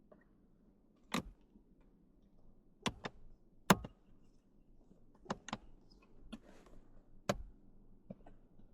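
Sharp plastic clicks and knocks as the cabin air filter's access cover is handled and fitted back over the filter housing: about nine separate clicks at uneven intervals, the loudest a little under four seconds in.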